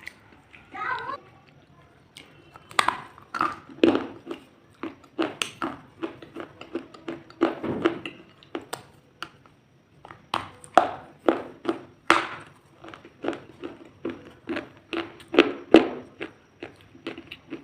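Crisp food being crunched, a long run of short sharp crunches at an uneven pace of one to three a second.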